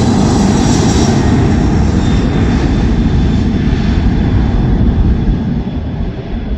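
Jet airliner's engines at takeoff power: a loud, steady rumble with a faint high whine, which fades and loses its treble over the last second or so as the aircraft moves away.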